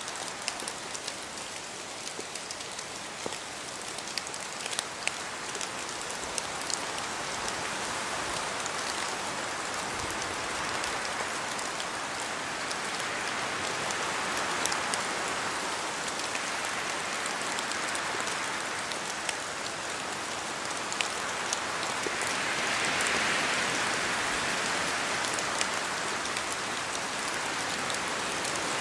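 Steady rain in a forest, with distinct drops falling from the trees. The rain grows gradually louder, swelling in slow waves as gusts of wind pass.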